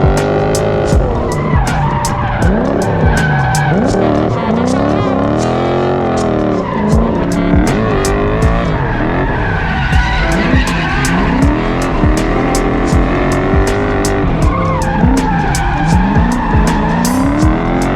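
Drifting vehicle's engine revving up and down again and again with tyres squealing, under background music with a steady beat.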